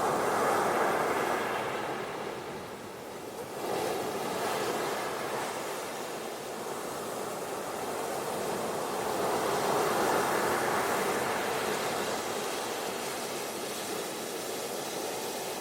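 Ocean waves washing onto a beach, the surf swelling and ebbing in slow surges, with a fresh wave breaking a few seconds in.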